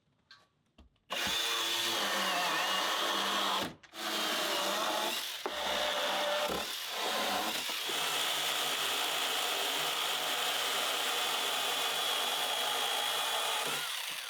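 An electric power tool working wood, starting about a second in and running with a steady high whine. It breaks off briefly near four seconds, then runs on until it stops just before the end.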